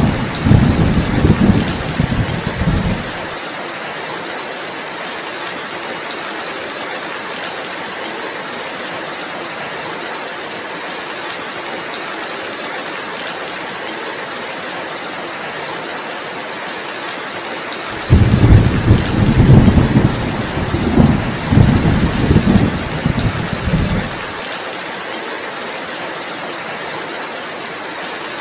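Heavy rain falling steadily with an even hiss. Thunder rumbles in uneven rolls twice: in the first three seconds, and again for about six seconds from roughly two-thirds of the way in.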